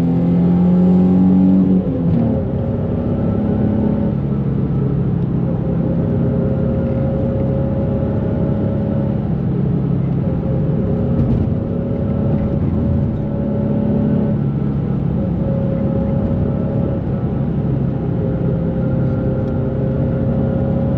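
2004 Nissan 350Z's 3.5-litre V6, fitted with Z1 exhaust and intake and a JWT pop charger filter, pulling at high revs. The revs drop sharply about two seconds in, and the engine then runs on steadily at a lower, even pitch.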